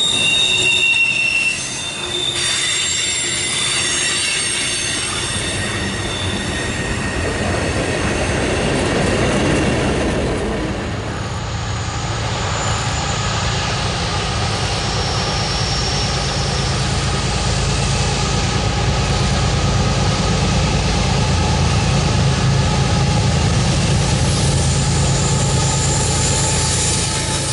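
Freight cars rolling past with wheels squealing on the curve for the first ten seconds or so. Then the sound turns to the steady low running of approaching Norfolk Southern diesel locomotives, growing a little louder toward the end.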